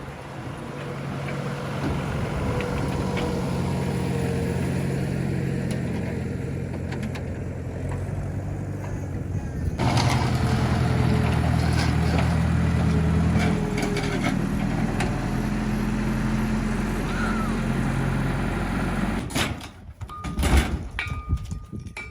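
A vehicle engine running steadily, its pitch shifting a couple of times around the middle, followed by several sharp knocks and clanks near the end.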